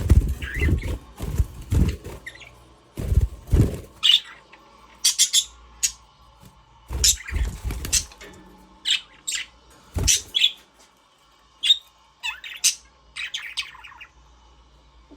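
Budgerigars chirping in short, scattered high calls. Dull knocks and bumps crowd the first few seconds, and a couple more come later.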